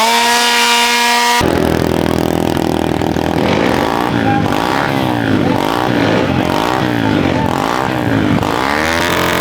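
Pit bike engine held at a steady pitch for about a second and a half, then revved up and down over and over, roughly once a second.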